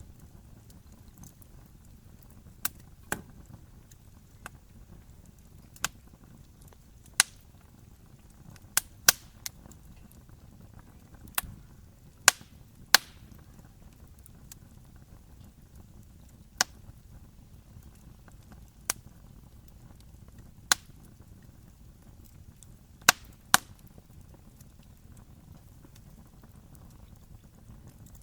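Wood campfire crackling: irregular sharp pops and snaps, one every second or two, over a soft low rush from the burning fire.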